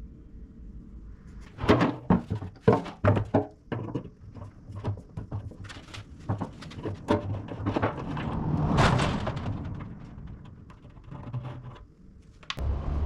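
Metal parts and tools being handled on a workbench: a quick run of sharp knocks and clunks about a second and a half in, scattered clicks, then a louder scraping swell partway through.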